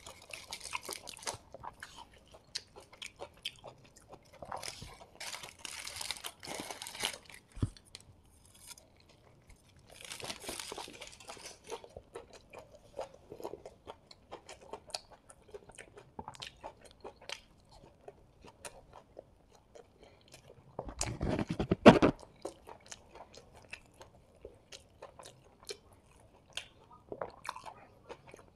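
Close-miked chewing and biting into a chicken chappathi roll, with aluminium foil crinkled as it is peeled back in a few stretches. One louder burst comes about three quarters of the way through.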